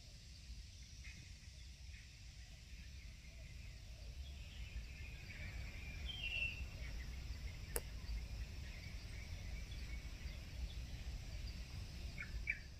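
Faint outdoor ambience: birds chirping now and then, mostly in the middle and near the end, over a steady low rumble, with one sharp click a little past halfway.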